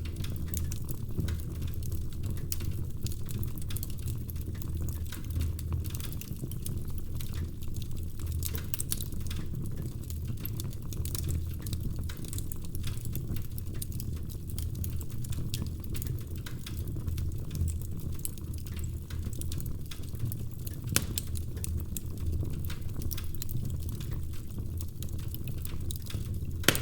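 Wood fire in a fireplace, burning logs crackling with a steady low rumble of flame and many small pops, and a sharper pop about twenty-one seconds in and another near the end.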